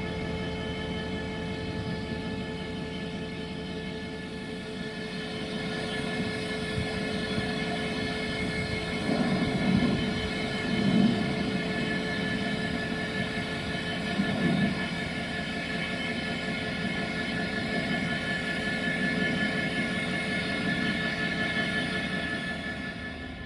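Steady hum of a train standing and running at the station, holding several fixed tones, with a few low rumbles swelling up around the middle.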